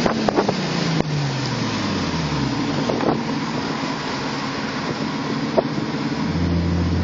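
Audi S5's V8 engine note falling steadily in pitch over about two and a half seconds as the revs drop back after a blip of the throttle, then a steady engine drone that comes in about six seconds in. Wind noise on the microphone and a few sharp clicks are heard throughout.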